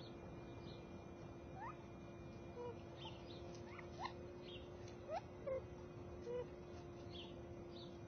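Birds calling softly: scattered short, quickly rising chirps and a few brief low notes, over a steady low hum.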